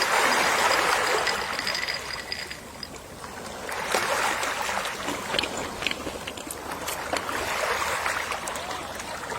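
Gentle sea waves washing onto a shore and drawing back, three slow swells of surf with a light fizzing crackle as each wave breaks.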